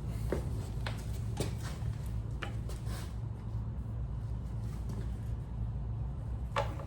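Scattered light clicks and taps of small parts and hand tools being handled during carburetor work on a small engine, five in the first three seconds and one near the end, over a steady low hum.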